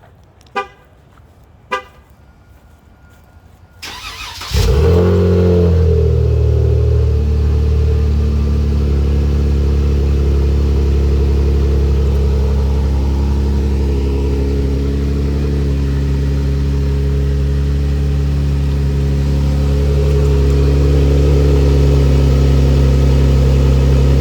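Ram 1500 pickup with a Magnaflow exhaust cold-started on fresh spark plugs. After two short beeps, the starter cranks briefly about four seconds in; the engine then catches and settles into a steady idle, getting slightly louder near the end.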